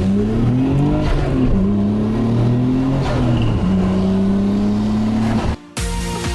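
A car engine revving, its pitch rising and falling several times, cut off abruptly about five and a half seconds in.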